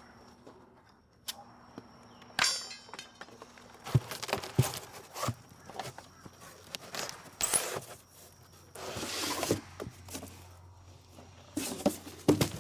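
Extruded polystyrene foam forms being pulled and broken away from a freshly cast concrete fire pit: scattered knocks, scraping and tearing. A quick rattle comes about two and a half seconds in.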